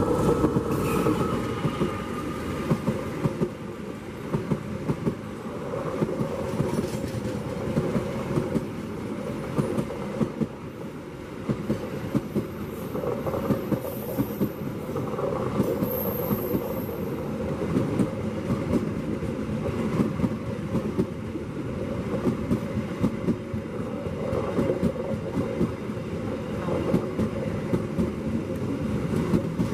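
A passenger train of coaches passing close behind a diesel locomotive. Throughout there is a steady rumble of the wheels on the rails with a rapid, irregular clicking over the rail joints. The locomotive's heavier low rumble fades in the first second or so, and a faint high-pitched squeal is heard briefly about halfway through.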